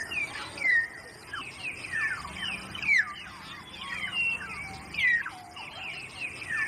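Hill myna calling: a run of short, clear whistles, most sliding down in pitch, coming one or two a second.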